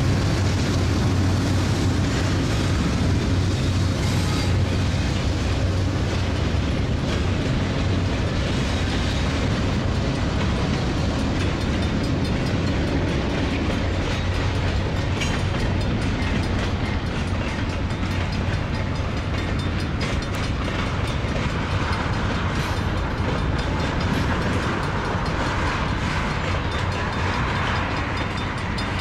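Freight train's tank cars rolling past at steady speed: continuous rumble of steel wheels on rail with a running clickety-clack of wheels over rail joints.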